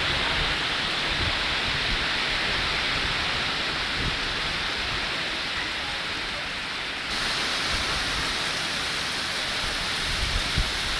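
Heavy rain pouring steadily, with wind. The hiss turns brighter about seven seconds in.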